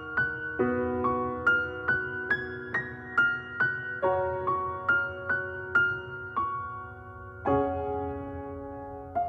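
Background music: a soft electric piano playing a repeating pattern of single notes, about two to three a second, ending on a longer held chord.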